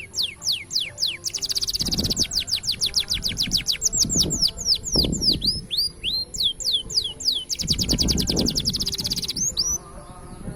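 Green domestic canary singing a long song: fast buzzy trills alternating with series of quick falling whistled notes, ending about a second before the close.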